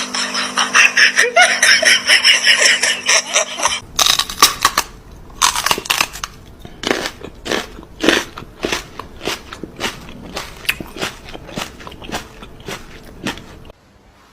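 Crunching, like an animal chewing something hard and brittle: a run of sharp crunches, several a second, starting about four seconds in. Before that there are four seconds of dense, busy noise.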